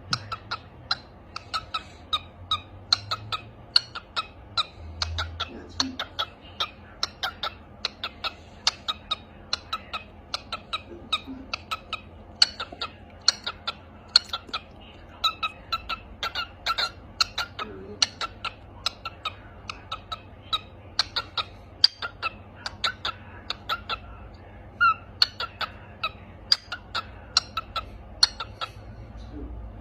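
Yellow lovebird giving a long run of short, sharp chirps, several a second, with brief pauses now and then.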